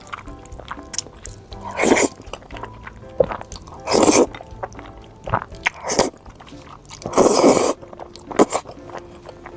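Close-miked eating sounds: four loud, short bites or mouthfuls of spicy noodles and stir-fried seafood, with smaller wet chewing clicks between them, over quiet background music.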